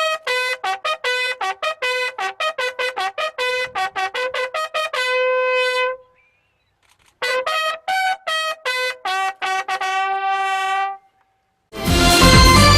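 A bugle call played on a brass horn: quick runs of short notes on a few fixed pitches, each run ending on a held note, with a short pause between the two runs. Louder, fuller music cuts in near the end.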